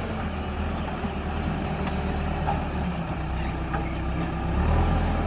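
Heavy diesel machinery engine running steadily, its low rumble swelling louder about four and a half seconds in.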